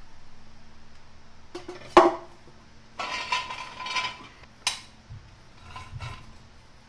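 Metal exhaust pipe being handled and fitted: a sharp ringing clank about two seconds in, then about a second of metal scraping and rattling with a ringing note, followed by a sharp knock and a few lighter taps.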